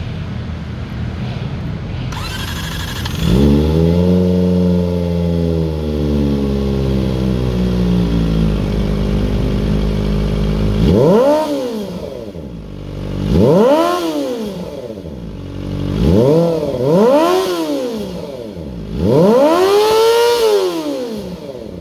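Kawasaki Ninja 250 parallel-twin engine running through an Akrapovic cone-type full-system exhaust. It idles, is revved up about three seconds in and held there for several seconds, then gets about five sharp throttle blips, the last held longest.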